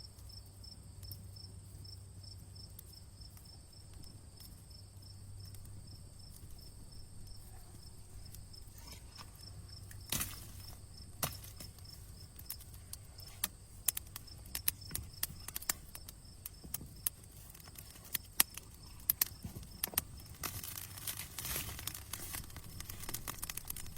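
Wood fire crackling: sparse at first, then sharp pops and snaps from about ten seconds in, coming thicker near the end. Under it runs a steady high, pulsing trill.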